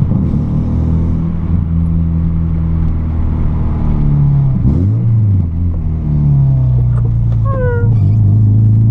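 VW Golf MK3 running at low, steady revs through a modified exhaust with the intermediate muffler and catalytic converter removed and a sport rear muffler fitted. About five seconds in the pitch dips and climbs back, as in a gear change, then holds a little lower. A brief rising high chirp comes near the end.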